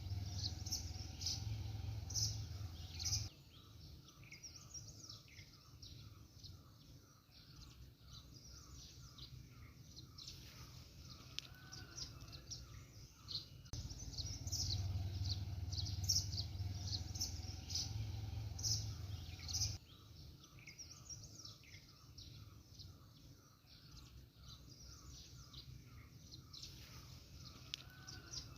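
Small birds chirping and twittering, with one bird repeating a short note about three times a second in long runs. A low rumble comes and goes underneath.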